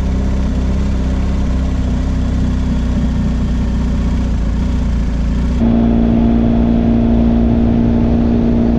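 Motorcycle engine running at a steady speed, with wind noise. A little past halfway it changes abruptly to a steadier, more even engine tone.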